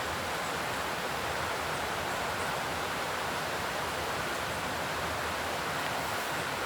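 Steady outdoor rushing noise, even and unbroken, with a few faint ticks.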